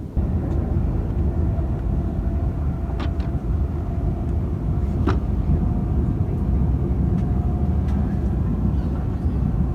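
Train running: a steady low rumble, with a faint steady tone and a few sharp clicks about 3, 5 and 8 seconds in.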